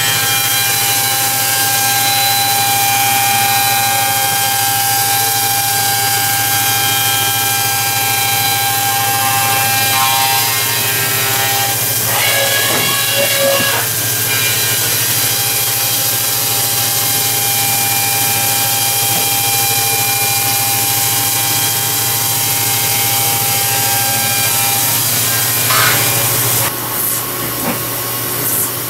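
Haas VF-2 CNC vertical mill cutting a part, a steady machining noise with a high whine over a constant low hum. The cutting tone wavers a little under halfway through. Near the end the whine stops and a hiss carries on.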